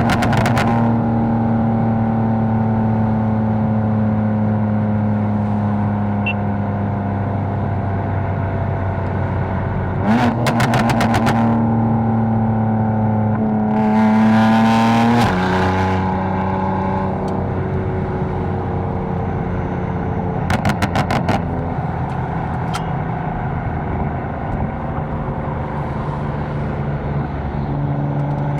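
Catless BMW M4's twin-turbo straight-six running at a steady cruise. Its note drops abruptly about halfway through, as at a gear change, and rises again near the end. Two short bursts of rapid clicks or crackles sound along the way.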